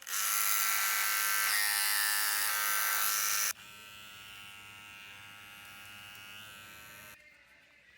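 BaBylissPro FX electric hair clipper running with a steady buzzing hum, loud at first and then, from about three and a half seconds in, much quieter: the clipper before and after its repair. The quieter running stops about a second before the end.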